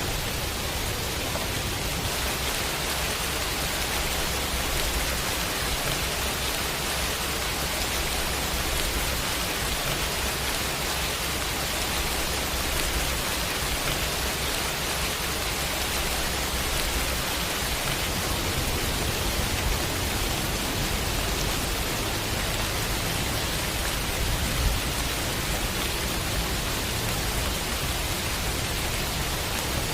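Steady heavy rain falling, an even hiss of dense drops with a low rumble beneath it.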